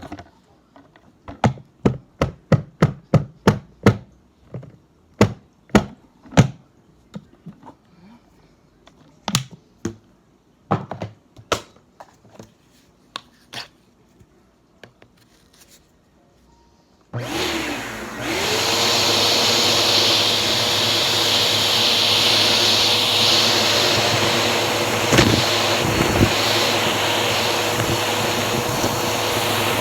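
A run of sharp knocks and taps, quick at first and then thinning out, then about halfway through a Bissell vacuum cleaner switches on: its motor spins up and runs with a steady loud rushing hum.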